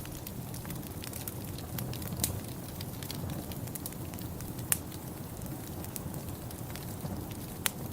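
Wood fire in a fireplace crackling steadily over a low, even rumble, with irregular sharp pops; the loudest come at about two seconds, near the middle and near the end.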